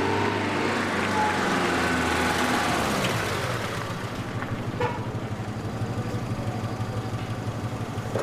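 A car drives up, its engine note falling over the first few seconds, then settles into a steady, rhythmic idle. There is a sharp click about five seconds in.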